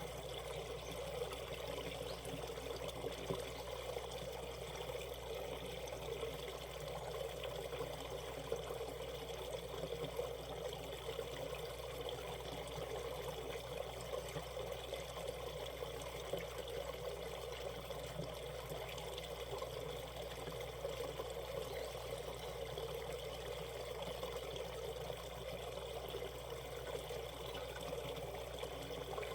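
Valley stream water flowing over rocks, a steady babbling and trickling.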